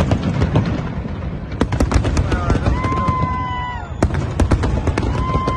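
Fireworks display going off: a dense, loud run of bangs and crackling reports, with crowd voices underneath. Two long steady tones, each about a second, sound in the middle and near the end.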